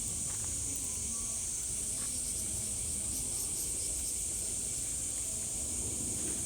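A steady, high-pitched chorus of insects trilling without a break, over a low outdoor rumble with a few faint ticks.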